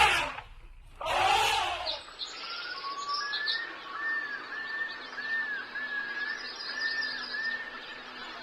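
A short loud burst about a second in, then a bird singing: a run of short, arched whistled notes repeated about twice a second over a faint steady hum.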